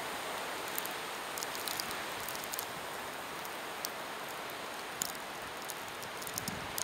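Steady hiss of snowstorm wind driving snow, with faint scattered ticks through it.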